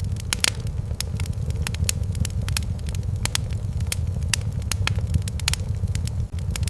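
Wood fire in a fireplace crackling, with frequent sharp pops at irregular intervals over a steady low rumble.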